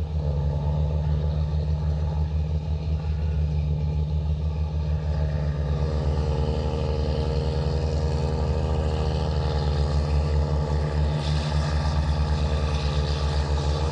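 Massey Ferguson 390 Turbo tractor's four-cylinder turbo diesel running through a twin exhaust, a steady low pulsing throb. The note grows fuller and a little harsher about six seconds in.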